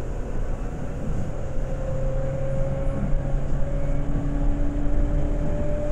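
Seibu 2000 series electric train running, heard from inside the car: a steady rumble of running noise, with a motor whine that rises slowly in pitch as the train gathers speed.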